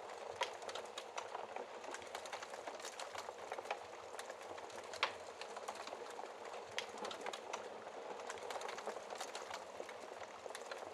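Wood fire crackling in a fireplace: a dense run of small pops and snaps over a soft hiss, with one louder pop about five seconds in.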